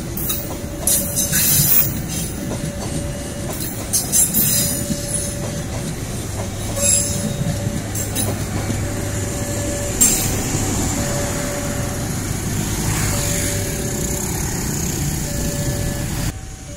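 Passenger train coaches rolling past close by: a steady rumble of wheels with sharp clacks over rail joints and points, and a high wheel squeal in the second half. A short tone repeats about once a second, and the sound drops suddenly near the end.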